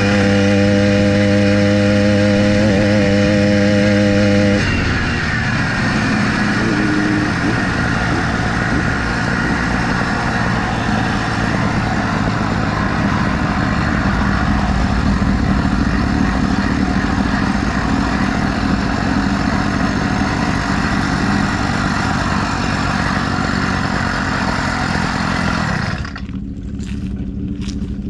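Motorized bicycle's small engine running at steady high revs. About five seconds in, the pitch drops as the revs fall, and it then runs on rougher and noisier. Near the end the sound drops suddenly in loudness.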